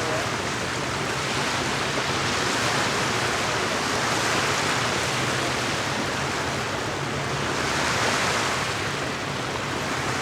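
Small lake waves washing against the shore, swelling and easing twice, over a faint steady low hum.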